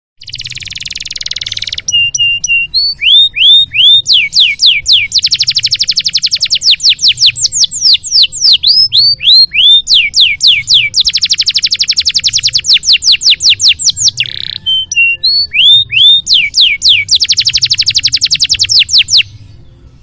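Canary singing a long, varied song: fast buzzy rolls and trills alternating with series of loud down-slurred whistled notes. The song stops about a second before the end.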